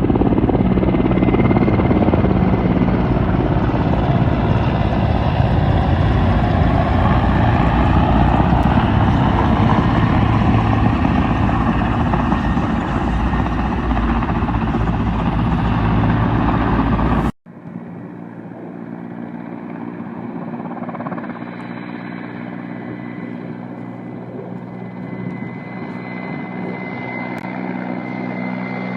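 Helicopter running loud and close, its rotor and turbine making a steady din. About seventeen seconds in it cuts suddenly to a quieter helicopter with a thin steady whine, slowly growing louder.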